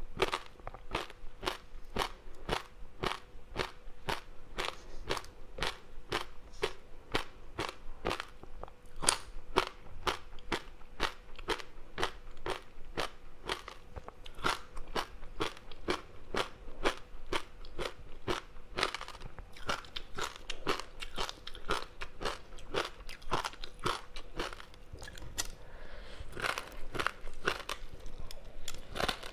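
Close-miked chewing of a crispy seaweed-wrapped rice snack: a steady run of crunches and crackles, about two to three a second.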